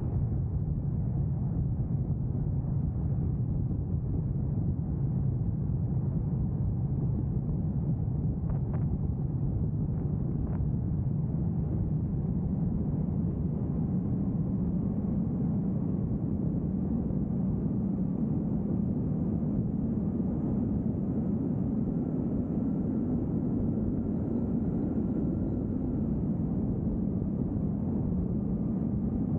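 Steady low rumble of a vehicle driving along a road: tyre and engine noise, with a couple of faint ticks about a third of the way through.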